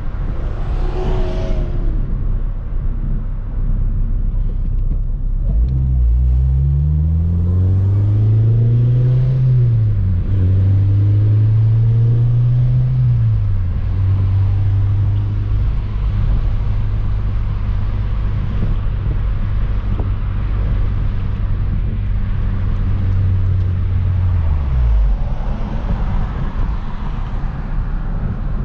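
Car engine and exhaust on the move with the exhaust leak freshly fixed. About five seconds in it pulls away, rising in pitch through two gears. It then holds a steady drone at cruising speed, and the pitch falls away near the end as it slows.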